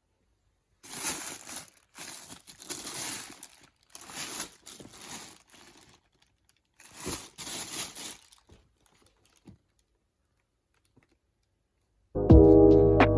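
Crinkly material being handled, rustling and crinkling in about six short bursts over seven seconds, then quiet; music starts near the end.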